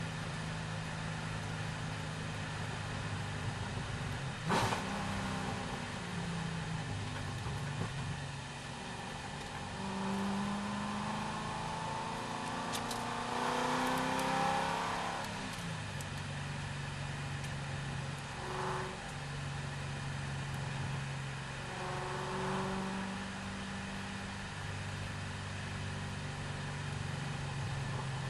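C6 Corvette V8 engine running under varying throttle, its pitch climbing and dropping in steps with gear changes. There is a sharp knock about four and a half seconds in.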